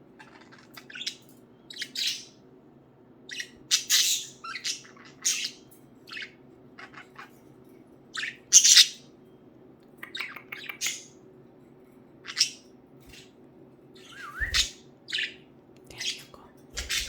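Pet budgies chirping and squawking in short, scattered calls over a faint steady hum, with a couple of low thumps near the end.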